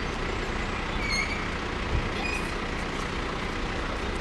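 Steady road traffic rumble from trucks and cars on a busy road, with a brief thump about two seconds in and a few short high chirps.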